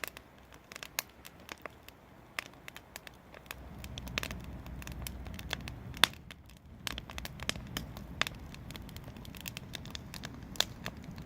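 Wood fire burning in a fireplace, crackling with irregular sharp pops and snaps. A low rumble joins in about three and a half seconds in.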